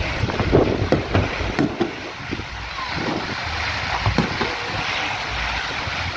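Fireworks going off in a scattering of sharp bangs over a constant rush of wind buffeting the microphone.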